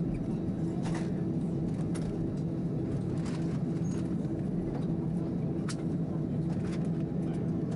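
Steady hum inside an Airbus A319 cabin just after arrival at the stand, with a few scattered clicks and knocks from the cabin.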